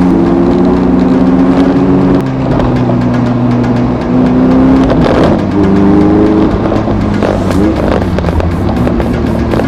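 Car engine running while driving, its pitch shifting several times with a brief rise in revs late on.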